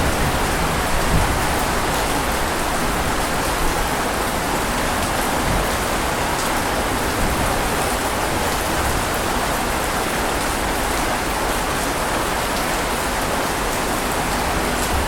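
Steady heavy rain falling on a surface, an even hiss with occasional louder drops.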